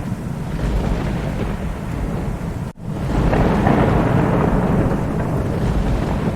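Thunderstorm: steady rain with low rolling thunder. About three seconds in, the sound drops out for a split second, and then a louder rumble of thunder swells and rolls on.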